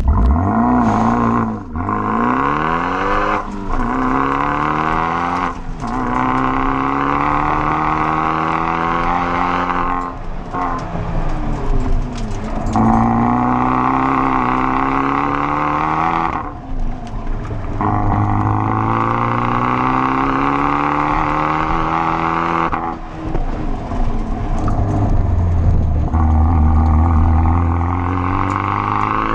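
Fiat 124 Spider's turbocharged 1.4-litre four-cylinder, through a RoadsterSport aftermarket exhaust, revving hard through an autocross run. The pitch climbs under acceleration and drops away again and again as the throttle is lifted for corners, over a steady rushing noise.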